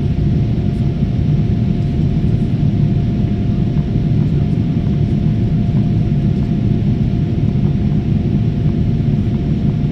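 Steady low rumble of a passenger airliner heard inside its cabin, engines and airflow, with a faint steady tone above it.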